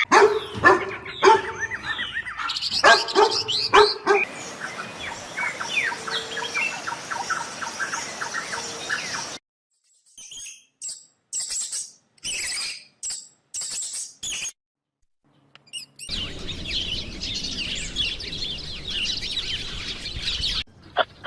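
Birds chirping and calling in several separately cut clips, with abrupt cuts and short silences between them. The first few seconds are the loudest; after that come quick high chirps, some single and some in dense runs.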